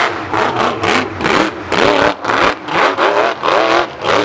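Mud bog truck's engine revving in repeated quick throttle blips, rising and falling in pitch several times a second.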